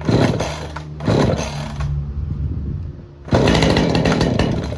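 Two-stroke chainsaw being pull-started on choke: three pulls of the starter cord, each turning the engine over in a short burst. The last burst is longer and louder as the engine starts to fire, the point at which the choke is taken down.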